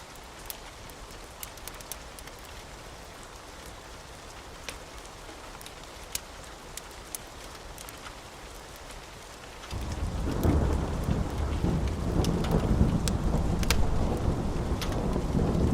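Steady rain with scattered sharp crackles from a wood fire, then about ten seconds in a loud, deep rumble of thunder sets in suddenly and keeps rolling.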